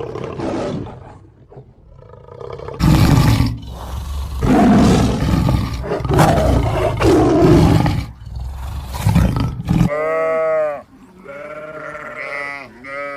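A large animal roaring and growling in a run of long, rough calls. About ten seconds in, it gives way to a series of pitched animal calls that rise and fall.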